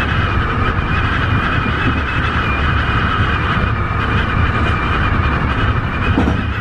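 Tobu 50090-series electric train running at speed: a steady rumble of wheels on the rails with an even, constant hum above it.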